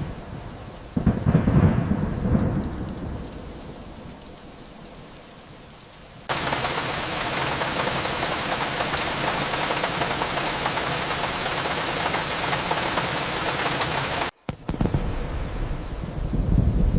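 Thunderstorm: a roll of thunder about a second in that fades away over several seconds, then heavy rain as a steady hiss that starts abruptly and cuts off suddenly, followed by another roll of thunder near the end.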